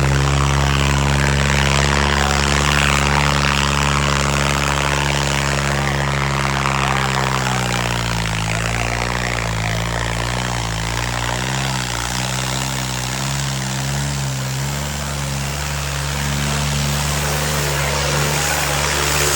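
John Deere tractor's diesel engine running hard, pulling a harrow through the soil. Its steady pitch sags and wavers for several seconds in the middle as the load changes, then steadies again.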